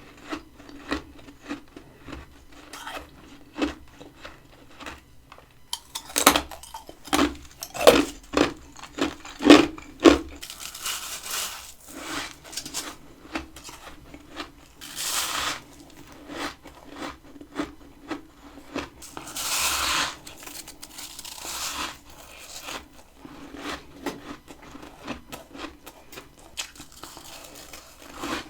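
Crunchy freezer frost, grown with a humidifier, being bitten and chewed close to the microphone. Softer crackling comes first, then a run of sharp crunching bites about six seconds in, with two longer rasping crunches later.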